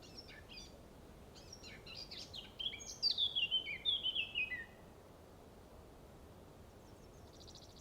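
A songbird singing: a run of quick high chirps, then a phrase of sharp notes stepping down in pitch that stops just before five seconds in. Near the end a buzzy trill starts another phrase, over a faint steady hiss.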